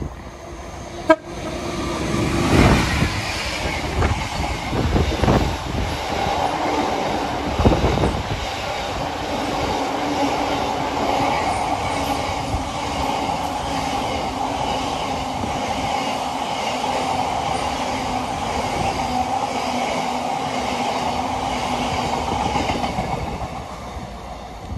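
A freight train sounds a brief horn toot about a second in, then passes close by for about twenty seconds, with loud, steady wheel-on-rail noise that fades near the end.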